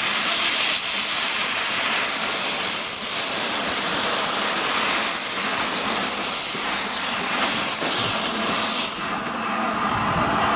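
Steam locomotive letting off steam: a loud, steady hiss that cuts off suddenly about nine seconds in.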